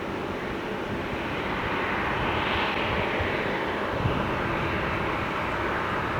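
Jet engines of a landing Boeing 737-800 making a continuous rush of noise that swells about two and a half seconds in, then eases slightly. A short low thump comes about four seconds in, under a gusty rumble.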